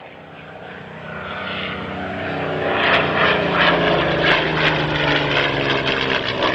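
Model aircraft's motor running steadily and growing louder over the first few seconds, with a row of short pulses about twice a second in the second half.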